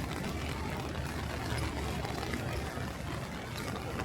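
Steady city street ambience: a low rumble with a hiss over it and a few faint ticks.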